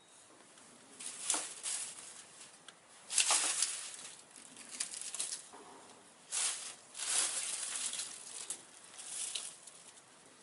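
Dry dead leaves and twigs rustling and crackling in irregular bursts, about seven over ten seconds.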